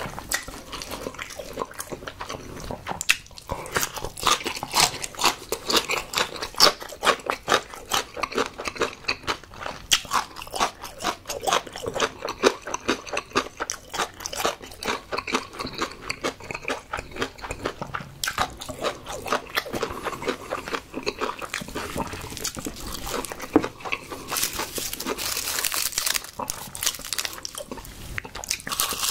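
A person chewing food close to the microphone, with a fast, unbroken run of wet mouth clicks and crunches. Near the end come a few seconds of crisp rustling.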